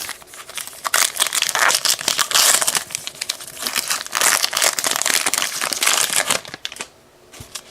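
Foil wrapper of a trading card pack crinkling and tearing as it is opened and handled. The loud crackling runs for about five seconds, then dies down near the end.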